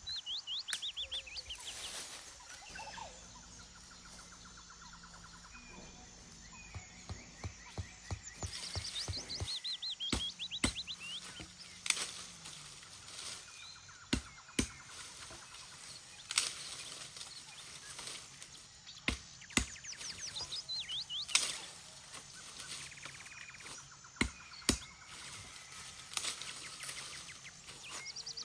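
Small birds singing, with quick repeated trills and falling call series, over a background of outdoor noise. A sharp knock sounds every couple of seconds through the second half.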